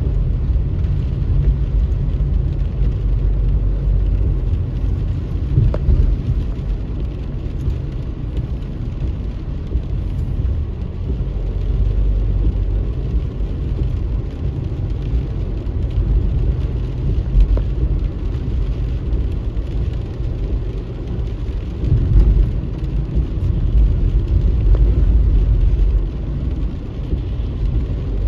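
Car driving on a wet road in the rain: a steady low rumble of engine and tyres with a hiss of rain and spray above it.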